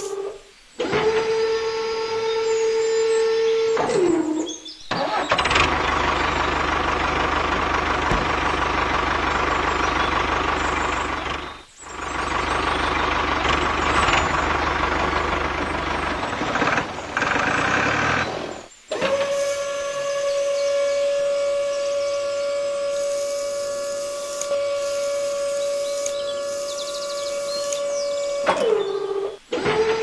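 Small electric motor of a handmade toy tractor and tipping trailer, running with a steady whine. The sound is cut off abruptly several times, and a rougher, noisier stretch in the middle replaces the whine for a while.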